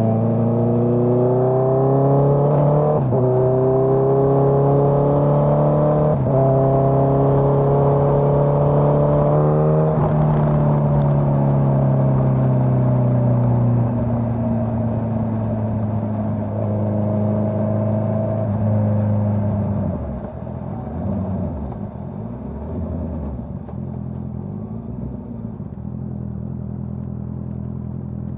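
Honda CBR650R inline-four through a Dominator GP full-system exhaust, accelerating with a climbing engine note and shifting up three times, about three, six and ten seconds in. It then eases off with a slowly falling note and drops to a lower, rougher steady note about twenty seconds in.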